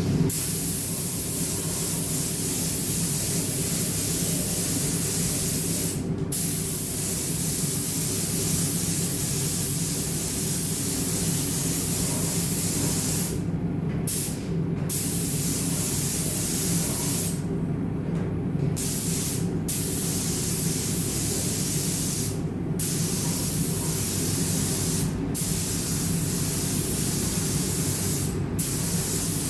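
Compressed-air paint spray gun hissing as gloss black paint is sprayed onto motorcycle wheels, in long passes broken by about eight brief pauses. A steady low hum runs underneath.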